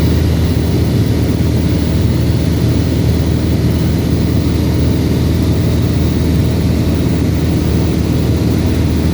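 Cessna 172RG's four-cylinder Lycoming engine and propeller running at a steady, unchanging speed.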